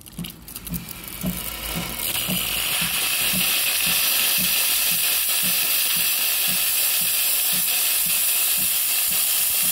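Gemilai 3609 espresso machine's steam wand opened to release pressure and purge: a loud, steady hiss that builds over the first couple of seconds, with a low pulsing about twice a second underneath.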